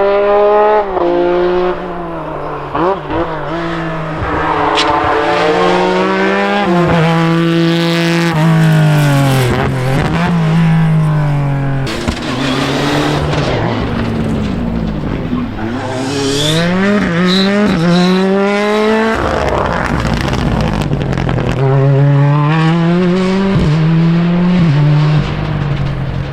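Rally car engines revving hard, the pitch climbing and dropping again and again as they work up and down the gears, with a sharp drop off near the end.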